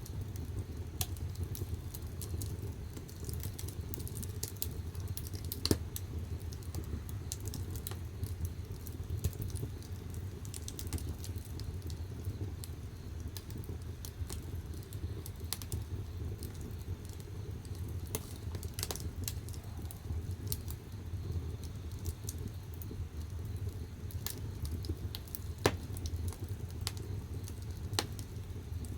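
Firewood burning in the firebox of a wood-fired bath heater: a steady low rumble of flame with frequent sharp crackles and pops, two louder pops about six seconds in and near the end.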